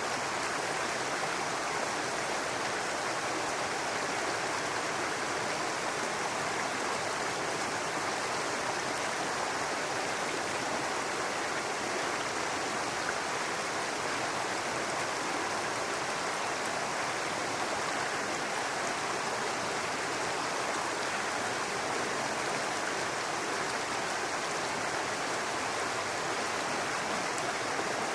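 A babbling brook: shallow running water over stones, an even, steady rush.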